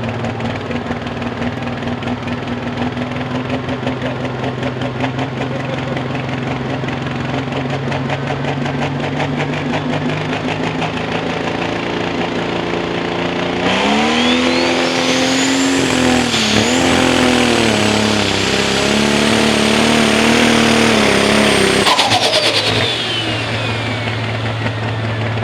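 Pro stock pulling tractor's turbocharged diesel engine running steady, then opened to full throttle about halfway through, with a high turbo whine climbing and held for about eight seconds. Near the end the throttle is cut and the turbo whine falls away.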